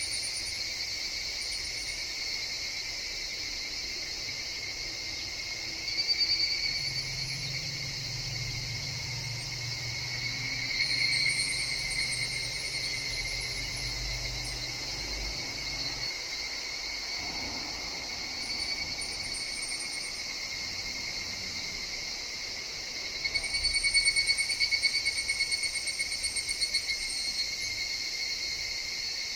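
Higurashi (evening cicadas) calling in a forest: a steady high ringing drone with louder pulsing calls that swell up about six seconds in, again around eleven seconds, and for several seconds near the end. A faint low hum sits underneath through the middle.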